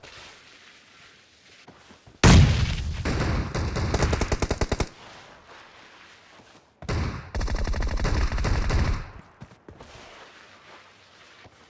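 Video-game automatic gunfire in two long bursts of rapid shots, the first starting about two seconds in and the second about seven seconds in, each lasting over two seconds.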